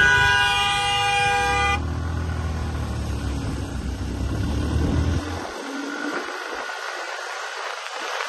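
A vehicle horn held in one steady blare that cuts off sharply about two seconds in, followed by a low engine rumble that drops away about five seconds in, leaving steady road and wind noise.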